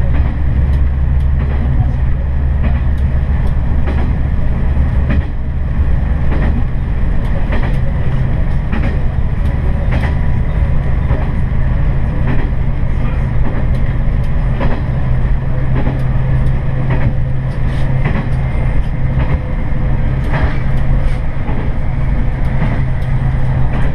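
Noto Railway diesel railcar under way, its engine a steady low drone whose note changes about five seconds in, with scattered sharp clicks over the running noise.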